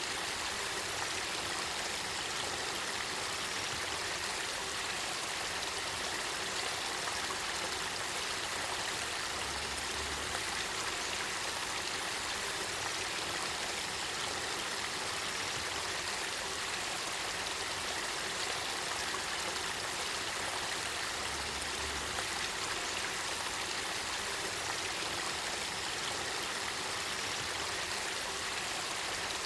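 Spring water flowing in a spring-fed river: a steady, even rushing with fine trickling.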